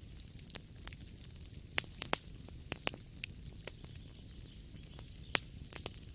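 Wood fire crackling in a fireplace: irregular sharp pops and snaps over a low, steady rumbling hiss.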